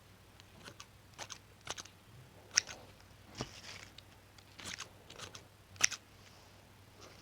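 Scissors snipping: a series of sharp, irregular cuts, with two louder snips, one near the middle and one about a second from the end.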